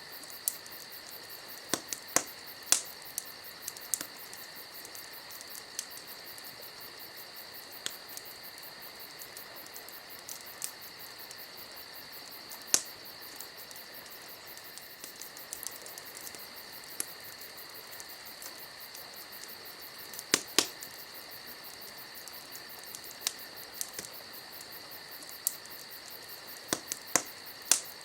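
Wood campfire crackling, with sharp irregular pops and snaps, a few in quick clusters, over a steady high chirring of crickets.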